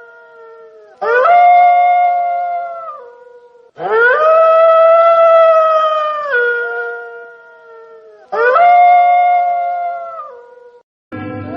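Wolf howling: three long howls, each rising at the start, holding, then sliding down in steps and fading. Near the end the sound cuts off briefly and another howl begins over a low steady hum.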